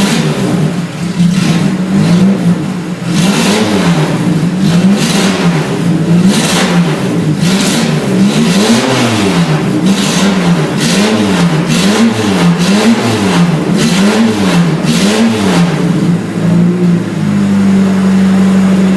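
New VAZ (Lada) car engine being revved in repeated blips, its note rising and falling about once a second, then holding a steady note near the end.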